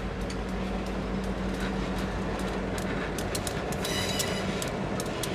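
Train rolling behind an EMD SD-M diesel locomotive: a steady low engine drone with scattered clicks of wheels over the rail, and a brief high wheel squeal about four seconds in.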